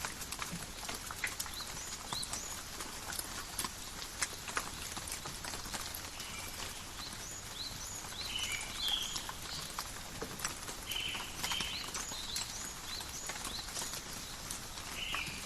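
Steady light rain in a forest, with drops pattering and dripping irregularly off leaves in sharp, uneven ticks. Short high chirps come and go from about the middle on.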